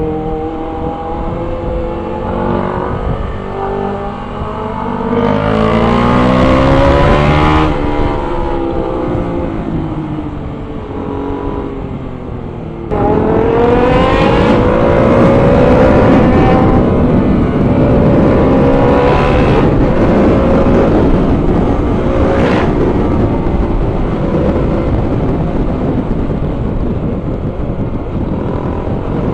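Kawasaki Z900's inline-four engine revving and accelerating on the road, its pitch climbing and falling through the gears. About thirteen seconds in it suddenly gets much louder and pulls hard, then runs on at speed.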